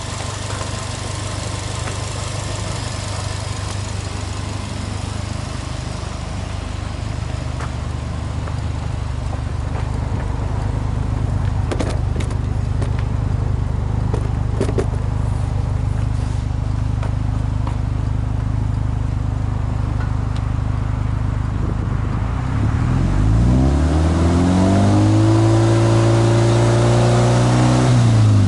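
Subaru Impreza WRX STI hatchback's turbocharged flat-four (boxer) engine idling steadily, heard through its exhaust. About three quarters of the way through it is revved up once without load, held at high revs for a few seconds, then let fall back near the end.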